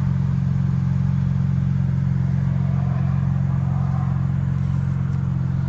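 BMW M4 CS's twin-turbo inline-six idling steadily, a low even hum with no change in pitch.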